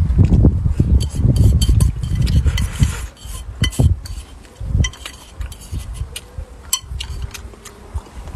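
Close-up chewing of a mouthful of braised pork, loudest over the first three seconds. Wooden chopsticks then click and scrape against a glazed earthenware plate in short, separate taps.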